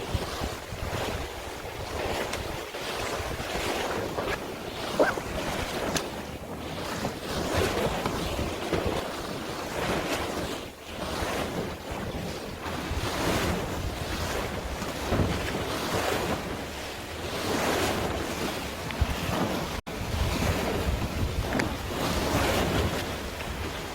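Wind buffeting the microphone over the steady wash of sea waves, rising and falling every second or two, with a few faint knocks.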